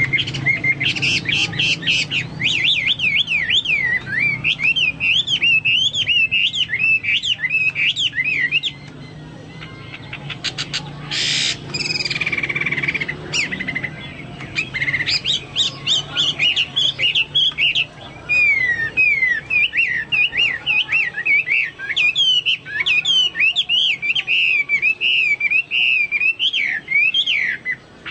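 Hwamei singing a long, varied song of fast whistled phrases sliding up and down, mixed with rapid trills, a song likened to that of the cucak Papua or cucak mas. It breaks off briefly about nine seconds in and resumes with a burst of quick trills.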